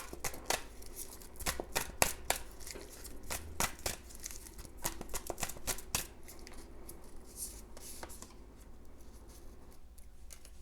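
A tarot deck being shuffled by hand: a quick run of crisp card clicks and slaps over the first six seconds or so, then only a few scattered ones.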